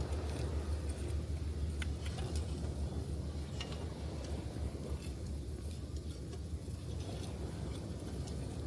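Wood campfire crackling, with scattered sharp pops, over a steady low rumble of surf and wind on the microphone.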